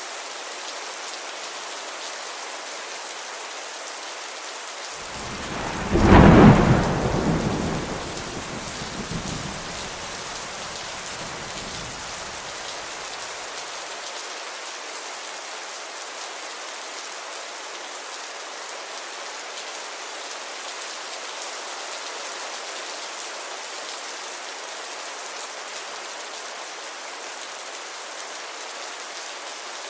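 Steady rainfall with a single roll of thunder about five seconds in, loudest for a second or two and rumbling away over several seconds.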